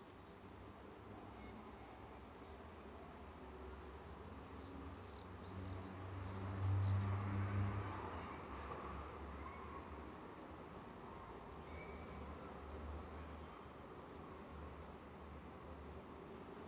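Birds chirping in a rapid run of short, high, arched notes, over a low steady hum that grows louder about six to eight seconds in.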